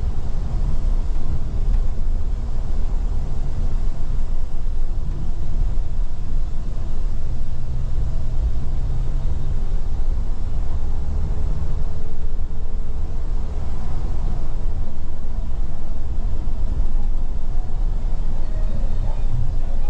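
Scania Metrolink multi-axle coach on the move: a steady low engine and road rumble.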